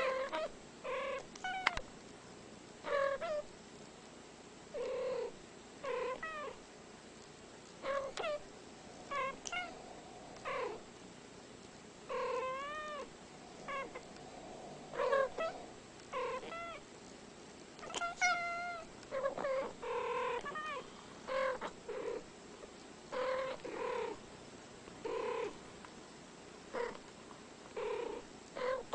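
Two house cats trading short calls back and forth, a steady series of brief mews, roughly one a second with short gaps, some with a wavering, bending pitch.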